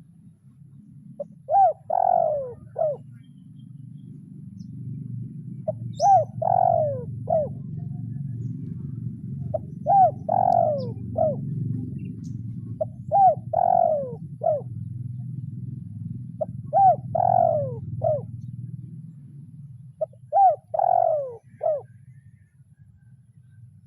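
Spotted dove cooing its call over and over: six phrases, each a short note, a longer one and a short closing note, about every three and a half to four seconds. A low steady rumble runs underneath, louder in the middle.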